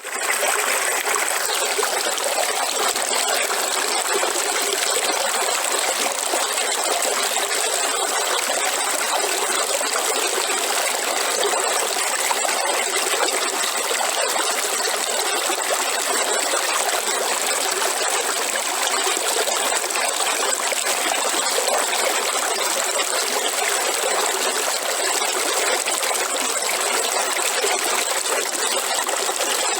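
River water flowing, a steady rushing and trickling with no low rumble.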